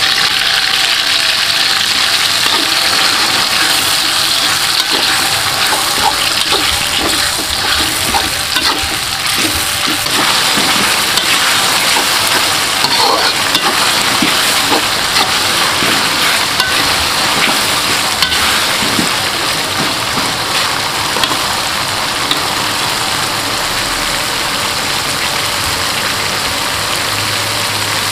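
Ground chili spice paste sizzling steadily as it fries in hot oil in a metal wok, with a perforated metal spatula stirring and scraping through it now and then.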